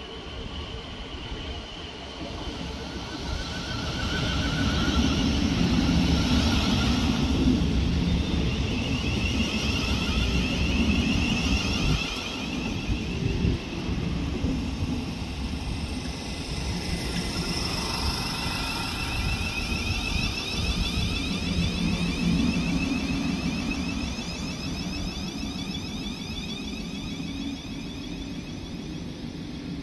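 Thameslink Class 700 electric multiple unit running into the station alongside the platform: a low rumble of wheels on rail under a whine from its traction equipment, growing louder over the first few seconds as the train comes close, then holding steady as it slows along the platform.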